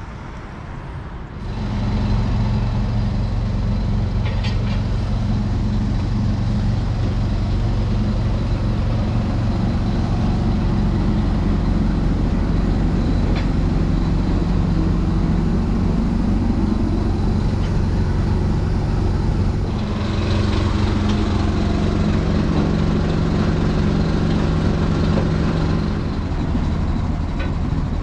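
Heavy truck's diesel engine running steadily, its low note shifting about two-thirds of the way through.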